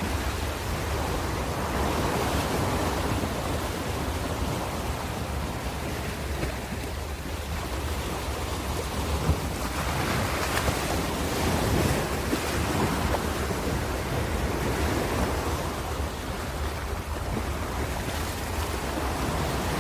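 Ocean waves breaking and washing in, a continuous surf rush that swells and eases every few seconds, with a low rumble and some wind on the microphone.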